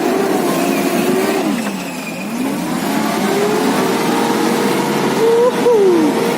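Toyota Land Cruiser engine working off-road: its pitch drops about one and a half seconds in, climbs again as it is revved, holds steady, then gives a short quick blip near the end.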